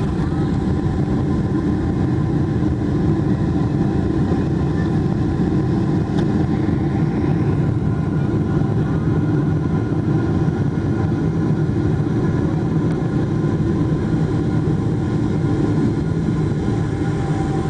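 Steady cabin noise of a Boeing 777-300ER: the GE90 engines drone evenly with a constant hum and a deep rumble, heard from inside the passenger cabin.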